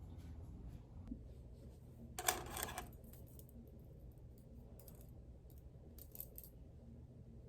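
A small hard object clattering about two seconds in, with a brief ring after it, then a few light clicks.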